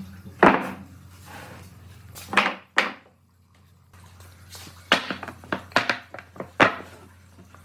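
A series of irregular knocks and clatters of hard objects being handled, with a quiet pause about three seconds in and a quick run of hits near the end, over a faint low hum.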